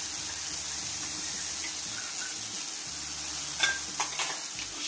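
Chicken pieces frying in a hot wok with the just-added sauces, a steady sizzle. Near the end comes a few sharp clicks of the metal spatula against the wok.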